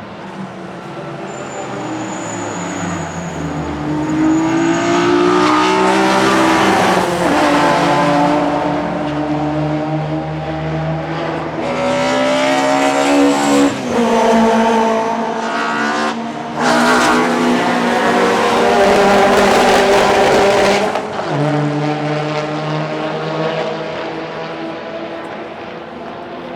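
Classic DTM touring race cars accelerating past at full throttle, their engines climbing in pitch through the gears with sharp breaks at the upshifts. Loudest in the middle as they pass, then fading away.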